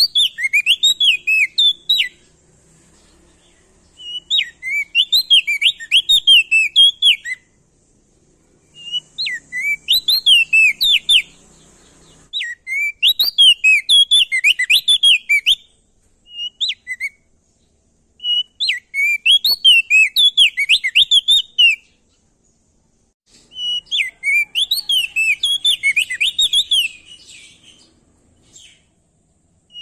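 Prenjak daun (opior jambul) songbird singing a rapid chattering song of quick up-and-down whistled notes. It comes in phrases of two to three seconds with short pauses between them.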